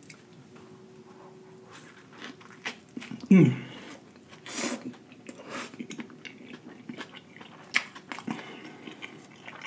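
Close-miked chewing of a fast-food burger: moist smacks and small clicks of jaw and lips as a mouthful is worked over, with a short hummed "mm" of falling pitch about three seconds in.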